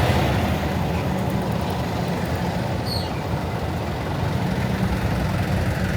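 Honda Monkey motorcycle's single-cylinder engine running steadily at low speed in traffic, with wind noise on the camera's microphone.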